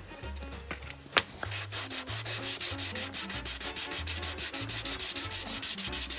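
Nail file rubbing along the edges of glued cardboard strips to even them up, in quick, even strokes. The strokes start about a second and a half in, after a single click.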